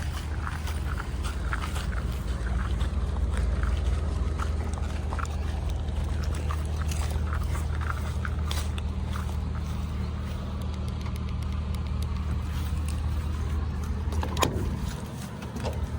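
Truck engine running in a steady low drone while driving, with scattered light clicks and rattles and one sharper click near the end.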